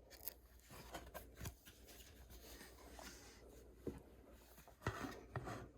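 Faint rustling and light taps of a book being handled, with a page being turned. The sounds come as scattered short rustles, several across the few seconds.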